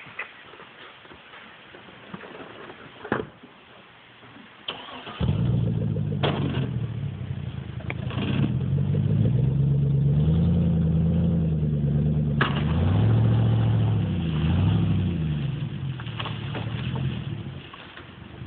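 Chevrolet Silverado pickup engine starting about five seconds in, then revving up and down under load as the truck drags a treetop by a chain, and easing off near the end. A few sharp knocks and clicks come before the engine starts.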